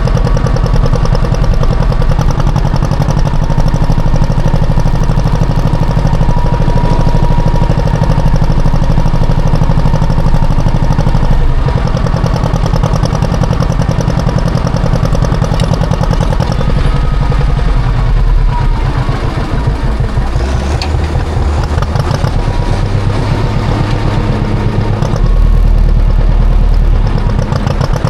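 Classic John Deere tractor engine running steadily under way while plowing snow, its note shifting about two-thirds of the way through and again near the end.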